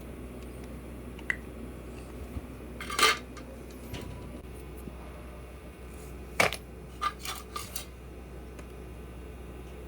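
Small metal parts and tools being handled and clinking against each other: a few separate clinks, the loudest about three seconds and six and a half seconds in, then a quick run of lighter clicks, over a faint steady hum.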